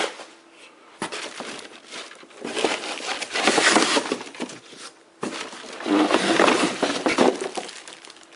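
Packaging rustling and crinkling as vacuum cleaner parts are handled out of their box. It comes in two long stretches, the first starting about a second in and the second just after five seconds.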